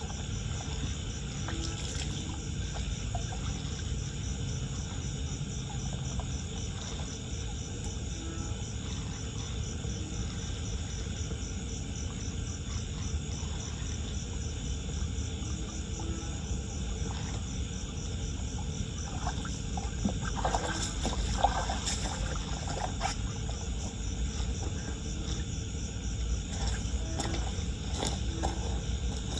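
Floodwater running and trickling into a street drain, with insects chirping steadily. A few short splashes or knocks come about two-thirds of the way through.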